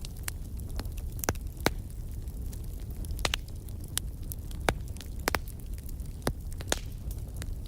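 Firewood burning: irregular sharp crackles and pops, about one a second, over a low steady rumble.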